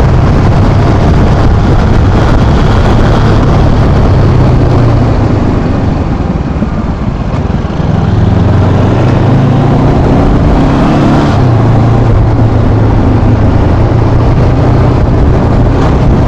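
Motorcycle engine running under heavy wind noise on the rider's microphone; about six seconds in the engine eases off and goes quieter, then picks up again with a rising pitch before holding steady.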